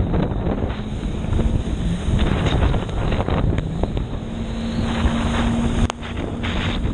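Wind buffeting the microphone over a jet ski's running engine. The engine's pitch wavers, then holds steady from about four seconds in.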